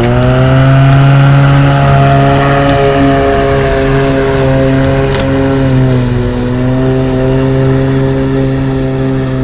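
Electric lawn mower switched on, its motor and blade spinning up in a quick rising whine and then running at a steady pitch, which sags slightly about six seconds in.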